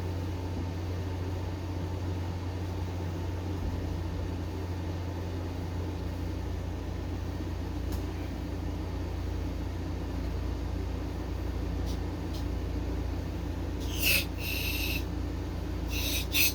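Two short sprays of an aerosol can of car parts cleaner near the end, the second briefer than the first, used as a starting aid in place of ether on a tiller engine that won't start. A steady low hum runs underneath.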